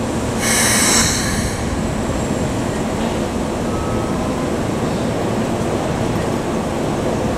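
Electric commuter train running on the rails with a steady rumble, and a brief high-pitched squeal about half a second in that lasts about a second.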